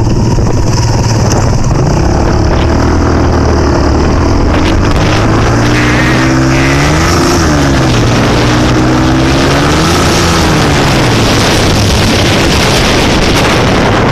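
Dirt bike engine running under load, with its revs rising and falling twice: once about halfway through and again a few seconds later. Wind noise on the microphone is mixed in.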